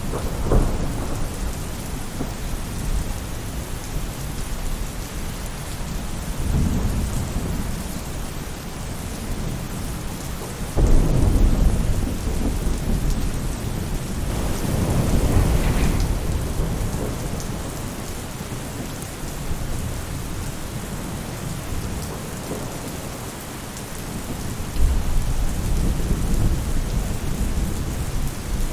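Steady rain falling on a roof, with thunder rolling several times; the loudest roll starts suddenly about eleven seconds in.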